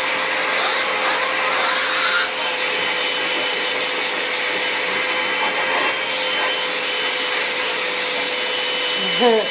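Vacuum cleaner running steadily, a constant motor hum and airflow hiss, with its nozzle worked over a cat's fur. A short pitched sound, a voice or a meow, comes just before the end.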